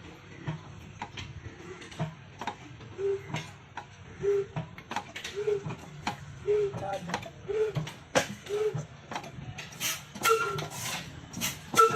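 Old machinery running with a slow, regular knock about once a second, over a low hum and scattered sharp clicks that grow busier and louder near the end.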